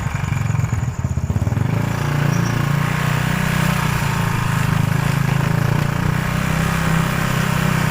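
Motorcycle engine running steadily while ridden, its low engine note pulsing for the first couple of seconds and then evening out, over wind and road noise.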